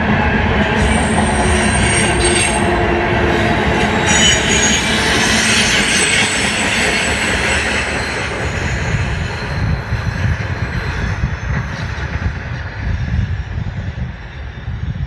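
Freight cars of a long CSX manifest train rolling past on steel wheels, with brief high wheel squeals in the first few seconds. The rolling noise dies away over the last several seconds, leaving a low rumble.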